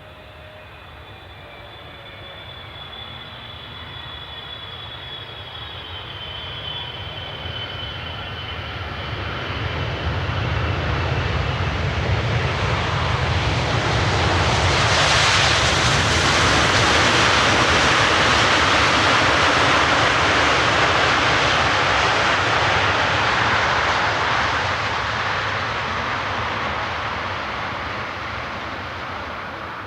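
Jet airliner passing close by, its engine noise swelling to a peak about halfway through and then fading away. While it approaches, thin high whining tones from the engines slide downward in pitch.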